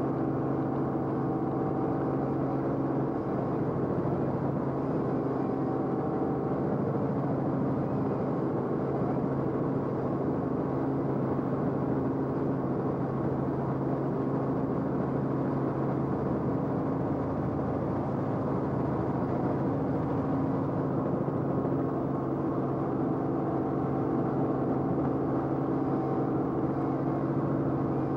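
Steady drone of an aircraft's engine, heard from inside the cabin: an even, muffled hum holding several fixed tones without change.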